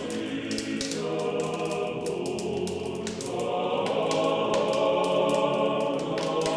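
Choir singing sustained chords, swelling a little about halfway through, with a scatter of sharp clicks throughout.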